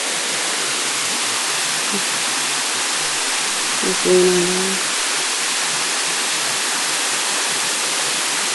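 Rushing water of a river and waterfall, a steady even roar, with a short hum-like sound about four seconds in.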